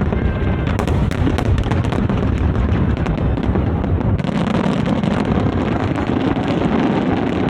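A large fireworks display going off in a continuous barrage of booms and crackles. A heavy low rumble eases about four seconds in, leaving more crackle.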